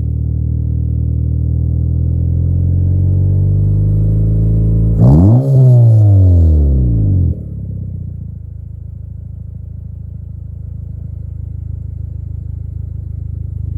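Honda Insight ZE2's 1.3-litre four-cylinder engine running through an Ultrasonic muffler. It holds steady, is blipped once about five seconds in with the pitch jumping up and falling back over about two seconds, then settles to a lower, quieter idle.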